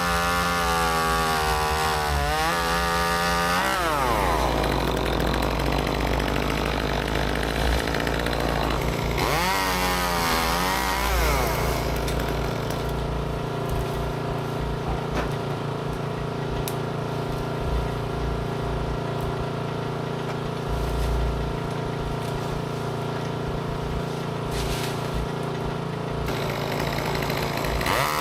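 Gas chainsaw working on a tree removal: the engine revs up to full throttle and drops back near the start and again about ten seconds in, and runs at lower speed in between.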